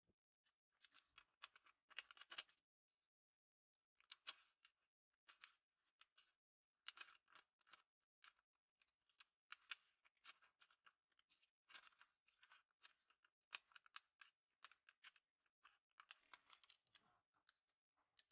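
Paper handled close to the microphone: soft, irregular crisp crackles and rustles, with a short pause about three seconds in.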